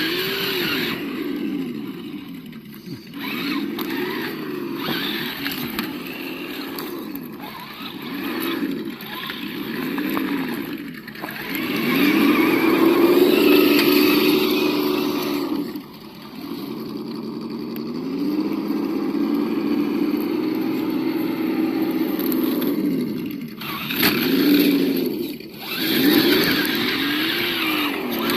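The engine-sound module of an Absima Yucatan 1:8 RC crawler playing a simulated engine whose revs rise and fall again and again with the throttle. It holds higher revs for a few seconds at a time around the middle.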